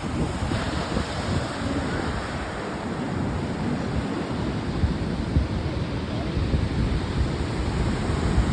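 Pacific Ocean surf washing onto the beach in a steady rush, with wind buffeting the microphone in low gusts.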